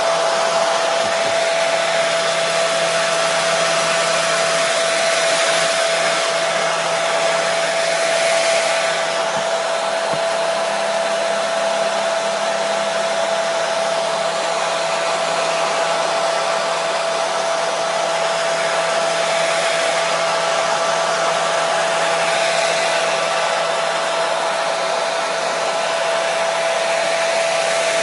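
Hair dryer running continuously at a steady speed: an even rush of blown air with a constant whine from its motor and fan.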